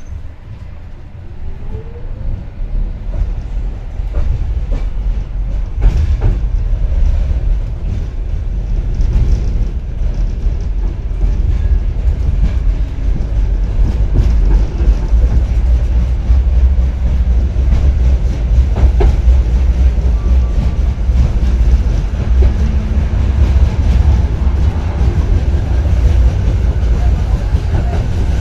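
Old Schindler-built tram running on badly worn metre-gauge track. A heavy low rumble builds over the first few seconds as the tram picks up speed, then holds, with occasional clacks from the rails.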